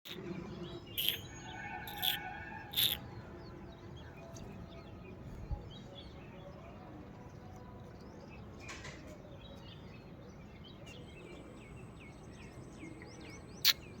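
Parrot giving short, shrill chirps: three in quick succession in the first three seconds, a fainter one near the middle and a sharp one near the end, with faint small chirps in between.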